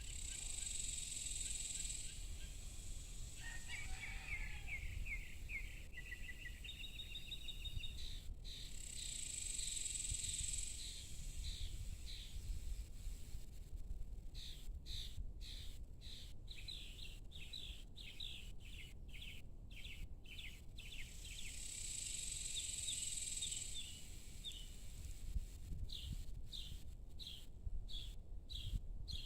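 Evening outdoor ambience: small birds chirping in quick repeated series, with an insect buzzing high in three bursts of about two seconds each, over a steady low rumble.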